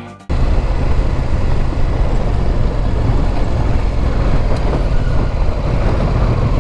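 Motorcycle being ridden at a steady pace: engine running with wind and road noise. It cuts in abruptly just after the start.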